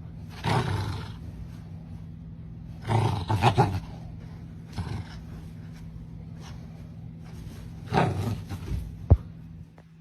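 An animal calling in three loud, rough bursts, about half a second in, around three seconds in and about eight seconds in, with a sharp knock about a second before the end. A steady low hum runs underneath.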